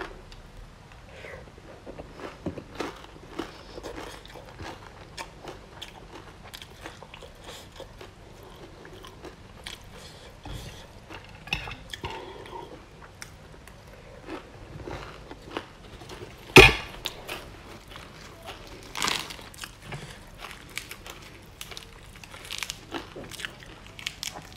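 A person chewing and crunching a stir-fry of shrimp, broccoli and fried chilies, with many small crisp crunches throughout and one sharp, much louder click about two-thirds of the way through.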